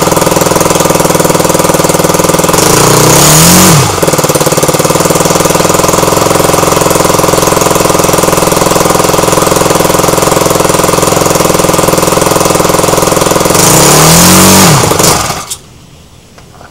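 Airpower A38 gasoline model-aircraft engine running with its propeller at a steady speed, revved up briefly about three seconds in and again near the end, then cutting out about fifteen seconds in.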